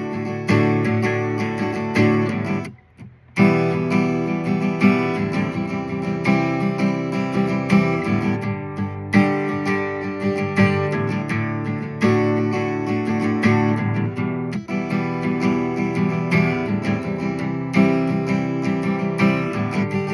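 Acoustic guitar playing an instrumental break between sung verses, strummed chords in a steady rhythm, with a brief break in the playing about three seconds in.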